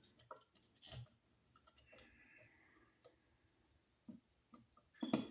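Scattered light clicks and taps of a screwdriver and a wall receptacle being handled while the receptacle is fitted into its electrical box, the loudest near the end.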